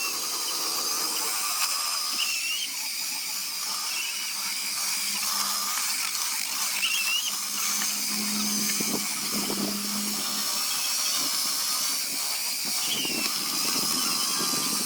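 A high-pitched power tool running steadily on wood, its whine wavering slightly in pitch.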